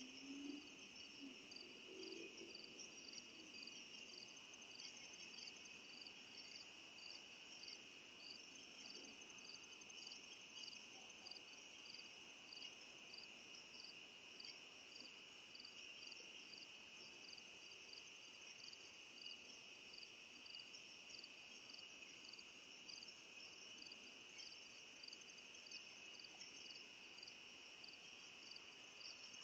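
Faint insect chorus: a steady high trill with a regular chirp repeating somewhat under twice a second over it.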